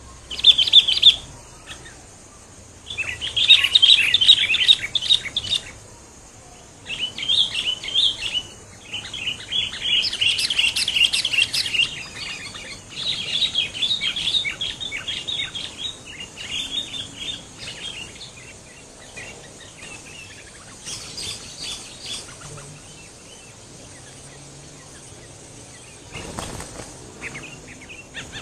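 Sooty-headed bulbuls (kutilang) chirping in repeated quick runs of high calls, busiest in the first half and thinning out later. A short rustling burst comes near the end.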